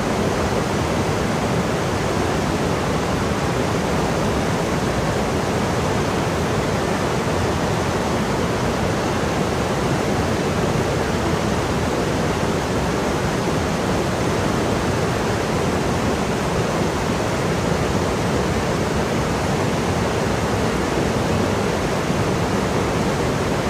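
Steady rush of fast-flowing water in a stream, an even, unbroken roar with no separate splashes or pauses.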